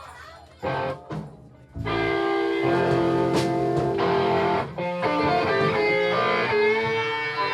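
Live electric guitars, played loud. After a short burst and a brief near-gap, they come in strumming chords at about two seconds in and keep going steadily.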